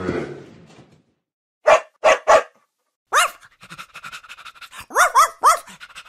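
A young dog barking in short, high yips: three quick ones about two seconds in, then more in the second half, each dropping in pitch. A cow's moo fades out at the very start.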